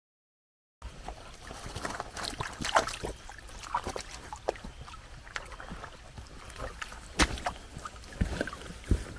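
Footsteps on a wet, rain-soaked trail, starting about a second in: irregular crunches and small splashy clicks from steps through wet ground.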